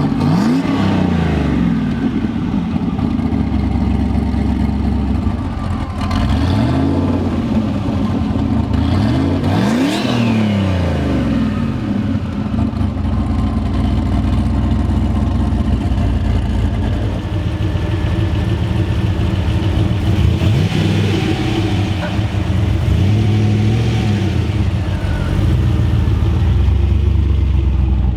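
Turbocharged LS V8 in a Volvo, heard through its mufflers, revving up and easing off several times as the car is driven slowly on its first drive, with steady running in between.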